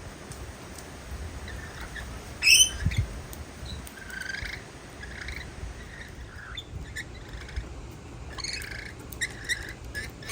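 Birds chirping with repeated short call notes, and one loud, sharp call about two and a half seconds in.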